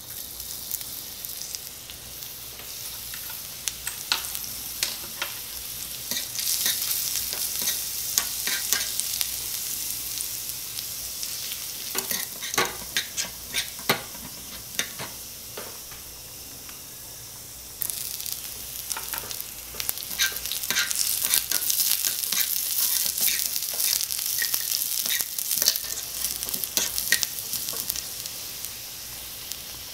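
Minced garlic and beef sizzling in oil in a miniature copper frying pan, with a tiny spoon stirring and clicking against the pan. The sizzle suddenly grows louder about two-thirds of the way through.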